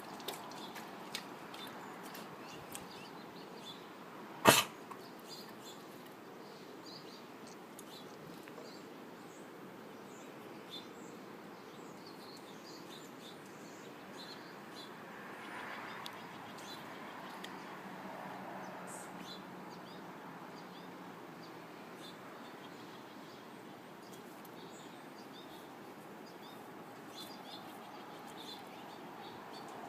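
Faint steady background noise with scattered short, high chirps of small birds, and one sharp click about four and a half seconds in.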